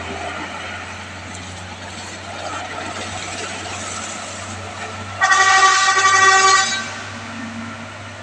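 Steady vehicle engine noise, then a vehicle horn sounds once, a single held note lasting about a second and a half, a little past the middle.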